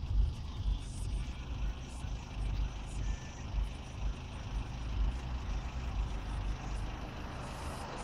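Low, uneven rumble of a car standing with its engine running, heard from inside the cabin with the window down.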